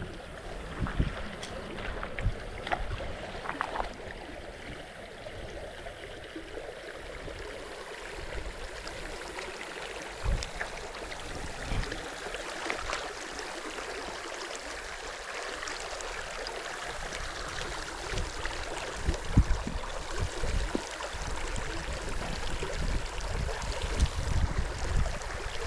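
Creek water running, a steady rushing hiss, with a few low thumps scattered through it.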